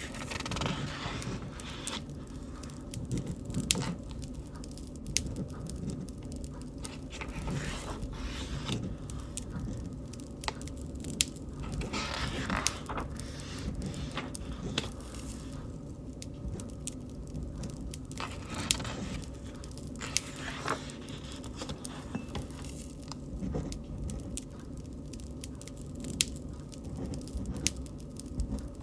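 Wood bonfire crackling, with scattered sharp pops and brief hissing flares over a steady low flame noise.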